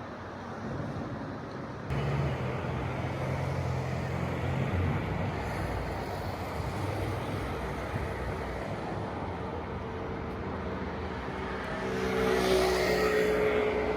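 Motor traffic ambience: a steady rumble that gets abruptly louder about two seconds in, with a vehicle passing louder near the end.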